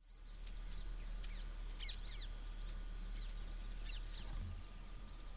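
Wild birds calling: short high chirps in quick clusters, loudest about two seconds in, over a steady low hum.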